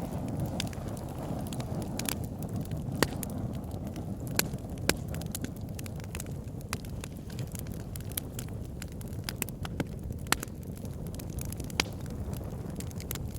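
Wood fire burning in a fireplace: a steady low rumble of flames with irregular crackles and sharp pops from the burning logs, a few louder pops in the first five seconds.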